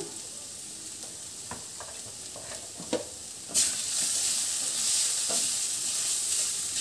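Onion, ginger-garlic and chilli masala frying in oil in a stainless steel kadai as turmeric and red chilli powder are stirred in. A few spatula scrapes and taps come first, then a steady sizzle starts about three and a half seconds in as the spices are turned into the hot oil.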